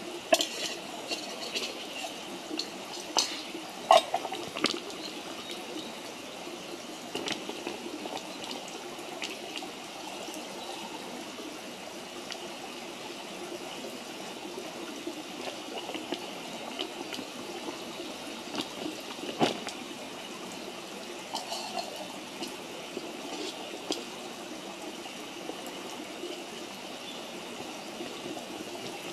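Wood campfire burning, a steady hiss with scattered sharp crackles and pops, the loudest pops about four seconds in and again near the twenty-second mark.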